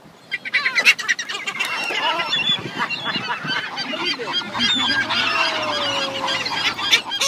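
A flock of seagulls calling over one another in a dense, loud clamour that starts about a third of a second in. The birds are crowding in after bread being held out to them.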